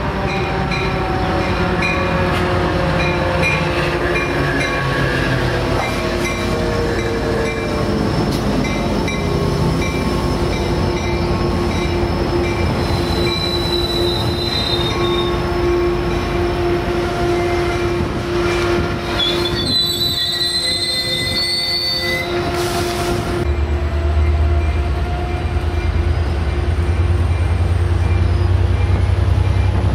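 Metrolink commuter train with an EMD F59 diesel locomotive passing and slowing into the station: the engine's note falls in pitch as it goes by, then the steel wheels and brakes squeal with a long steady tone and higher squeals. A steady low rumble sets in near the end.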